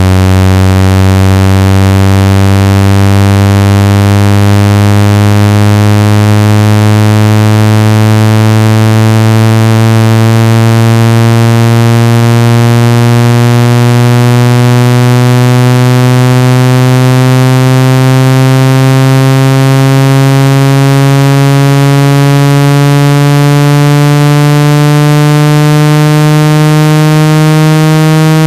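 Loud, buzzy synthesized water-ejection tone for clearing water from a phone or earphone speaker, its pitch rising slowly and steadily.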